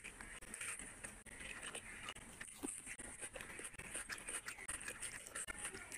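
Close-miked eating sounds: wet chewing and lip smacks, with many quick irregular clicks.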